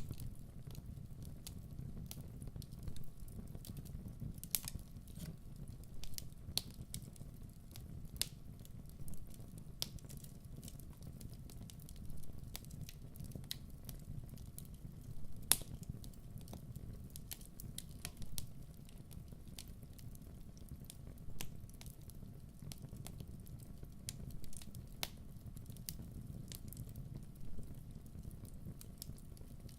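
Wood fire crackling: irregular sharp pops and snaps over a steady low rumble of the burning fire, with one louder pop about halfway through.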